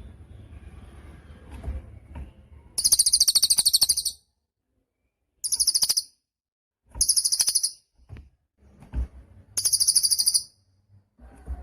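Cililin songbird singing: four loud bursts of very fast, high trilled chatter, each about a second or less, with short pauses between them. The first comes about three seconds in. Before it there is a low rumbling noise with a few clicks.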